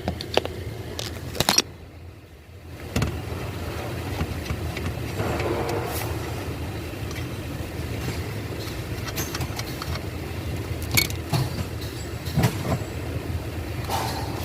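Scattered metallic clicks and knocks of hands and tools working a steering column coupling loose, over a steady low rumble, with a brief quieter moment about two seconds in.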